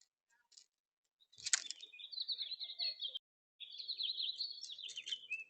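A songbird singing two long, fast warbling phrases, the first starting about a second and a half in with a sharp click, and the second following after a short pause.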